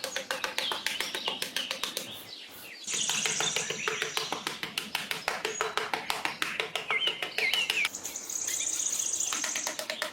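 Small birds chirping, with a high trill about three seconds in and again near the end, over a fast, even ticking of about six clicks a second.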